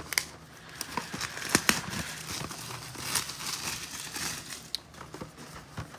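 Irregular crinkling and rustling of card packaging being handled, with scattered light clicks and taps.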